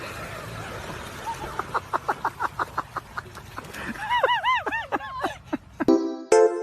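An animal calling: a quick run of short falling chirps, about five a second, then a few arched squeaks. Chiming music starts abruptly near the end.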